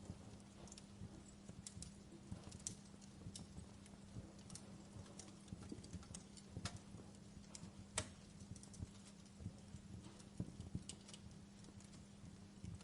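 Wood fire crackling in a fireplace, with irregular sharp pops and snaps; the loudest pop comes about eight seconds in. Under them runs a low rumble and a faint steady hum.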